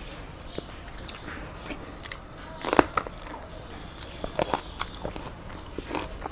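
Close-up eating sounds: chewing a mouthful of rice and fish, with scattered wet clicks and the soft scrape of fingers mixing rice on a steel plate. The loudest clicks come about three seconds in.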